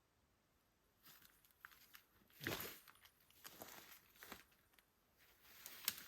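Footsteps and rustling, irregular, with one louder crunch about two and a half seconds in, after a quiet first second.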